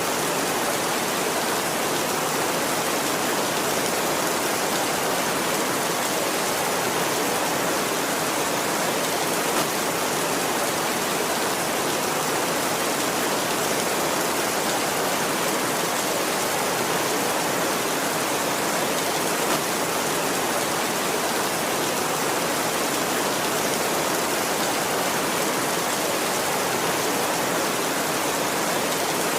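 Heavy rain falling steadily on a tin roof, an even, unbroken rush of noise.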